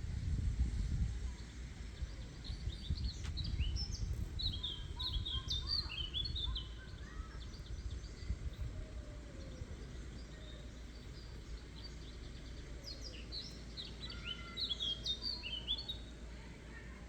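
Songbird singing outdoors in two bouts of quick, chirping phrases, the first a few seconds in and the second near the end. Under it runs a steady low rumble of outdoor noise that is loudest at the start.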